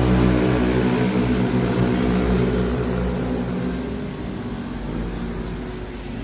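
A motor vehicle's engine running close by, a steady low drone that fades away about two thirds of the way through as the vehicle moves off.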